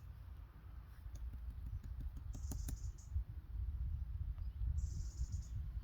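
Footsteps through forest-floor leaf litter: scattered light clicks and rustles, with two short rustling hisses, over a steady low rumble on the microphone.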